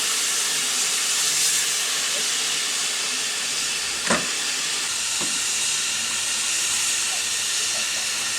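Steam locomotive hissing steadily as steam escapes, with a short sharp knock about four seconds in.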